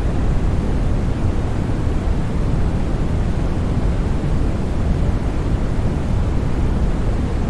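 Steady, continuous sleep noise played for soothing a baby: an even hiss-like rush, deep and strongest in the low end, with no changes or breaks.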